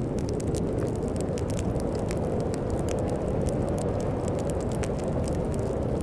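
Wood fire crackling in a fireplace, with many small scattered pops, over a steady low rumble of storm wind.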